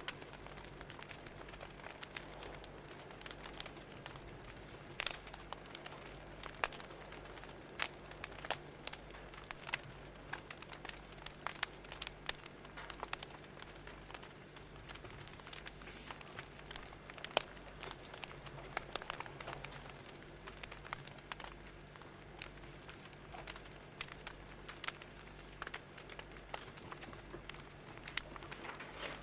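Fire crackling: irregular sharp pops and snaps over a soft steady hiss, with a low steady hum underneath.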